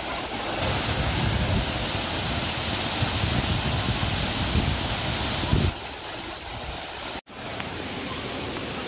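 Waterfall: a steady rush of falling water, louder and heavier from about half a second in until just past halfway, then softer, with a brief dropout near the end.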